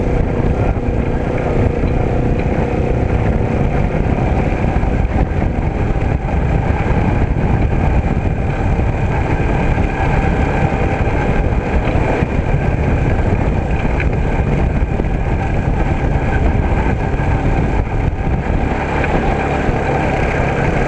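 A vehicle engine running steadily while on the move, with a dense low rumble throughout.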